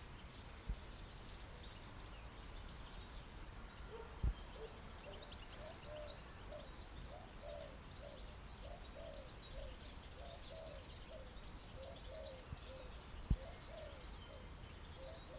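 Faint birdsong: many small birds chirping high and thin. From about five seconds in, a lower call repeats steadily about one and a half times a second. A couple of soft knocks stand out, about four seconds in and near the end.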